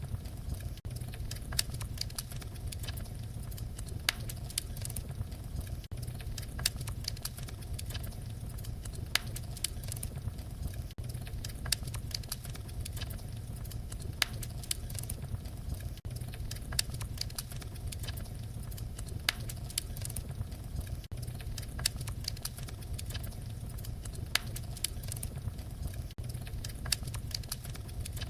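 Fireplace fire crackling: frequent small sharp pops and snaps over a steady low rumble.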